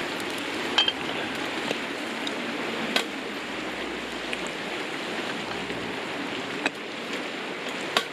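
Steady rush of a river flowing, with four sharp clinks of tableware, such as chopsticks against a cup or pot.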